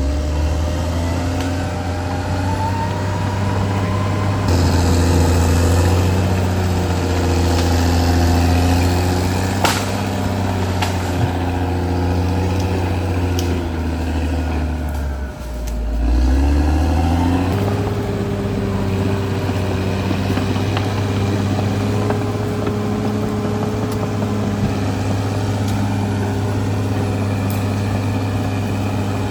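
Caterpillar D6R XL bulldozer's diesel engine running under working load. Its revs shift, dip sharply about halfway through and climb back, then hold steady.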